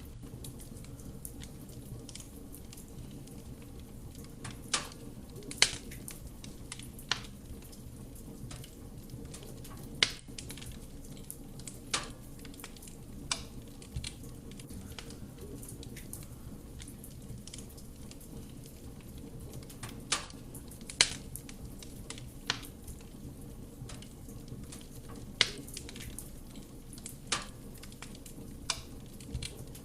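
Wood fire burning in a fireplace: a steady low rumble of flame with irregular sharp pops and crackles from the burning logs.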